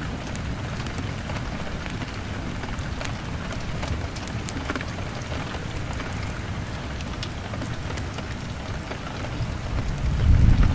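Steady rain on a window mixed with the sharp small pops of a crackling wood fire, over a low rumble. Near the end a deeper rumble, like distant thunder, swells up and grows louder.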